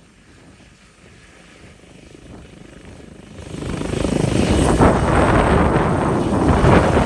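Rescue helicopter starting up: its engine and rotor noise build from faint to loud, jumping up sharply about three and a half seconds in, with a steady high whine over the din.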